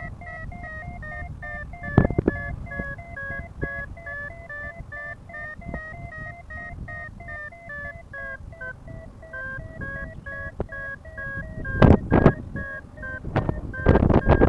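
Paragliding variometer beeping rapidly and steadily, about four short beeps a second, its pitch shifting slightly: the tone of a strong climb. Under it runs a low rumble of wind on the microphone, with a few loud buffets about two seconds in and near the end.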